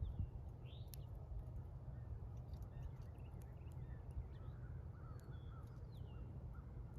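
Small birds chirping with short, scattered calls, including a quick run of chirps about five to six seconds in, over a steady low rumble.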